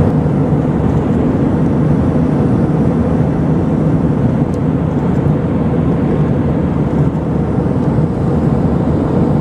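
Steady rumble of a jet airliner's engines and rushing air during the climb after take-off, even throughout, stopping abruptly at the very end.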